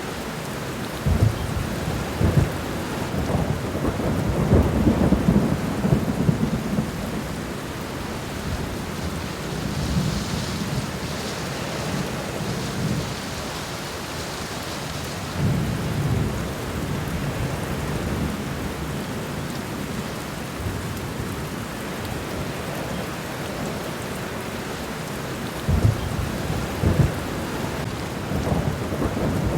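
Steady rainfall with low rumbles of thunder that come and go: a long spell near the start, another around the middle and a short one near the end.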